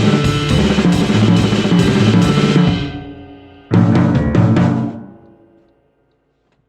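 Drum kit solo: a dense run of drum and cymbal strokes that dies away about three seconds in, then a short final burst of accented hits with cymbals ringing out into silence.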